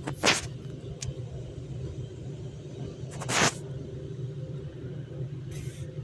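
A steady low motor hum, with two short hissing bursts, about a third of a second in and again about three and a half seconds in, and a fainter one near the end.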